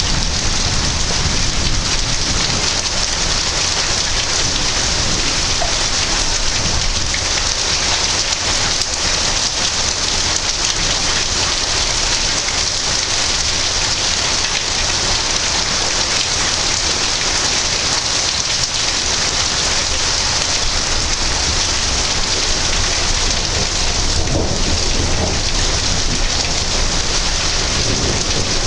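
Heavy rain falling steadily in a thunderstorm, with low thunder rumbling underneath.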